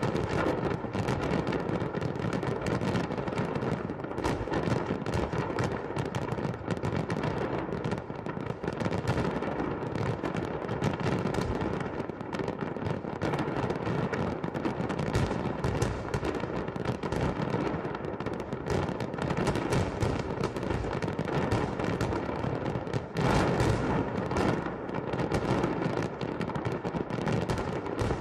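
Fireworks salute: a dense, continuous run of bangs and crackling bursts overlapping one another, with a louder cluster of bangs about 23 seconds in.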